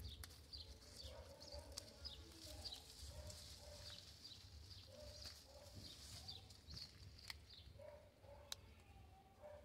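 Faint bird calls, short chirps repeating irregularly, with a couple of light clicks.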